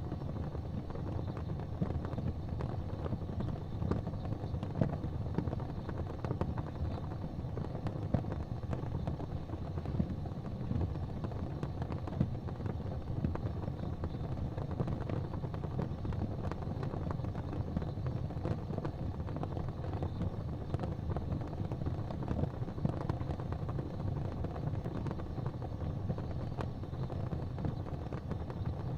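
Fire in a fireplace crackling, with frequent small pops and snaps over a steady low rumble.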